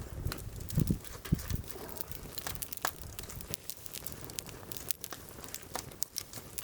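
Wood fire crackling, with many small sharp pops and a couple of dull thumps about a second in.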